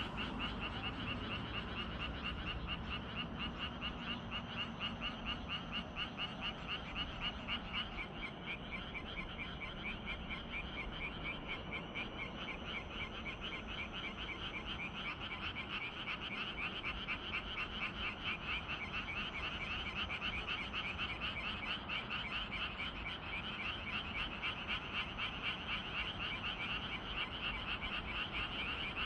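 A dense evening chorus of many frogs croaking: overlapping, rapidly repeated pulsing calls that go on without a break.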